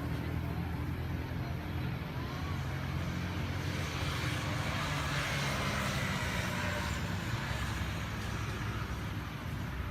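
A motor running steadily with a low hum, with a broader rushing noise swelling about halfway through and fading again.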